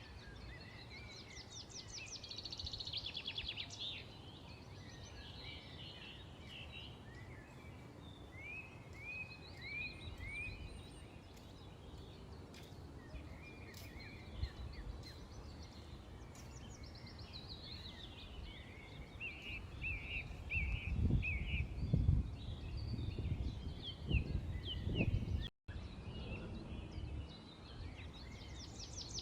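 Several birds chirping and calling, with quick repeated trills and short sliding chirps. Low rumbling noise swells in and out in the second half, and the sound drops out for a split second near the end.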